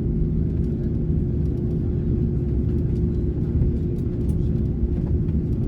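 Airbus A330neo cabin noise: the Rolls-Royce Trent 7000 engines and airframe give a steady low rumble with a constant hum underneath, heard from inside the passenger cabin.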